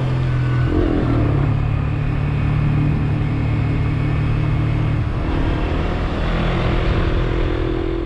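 Suzuki GSX-S125's single-cylinder engine running steadily while riding, over wind and road noise; the engine note changes about five seconds in.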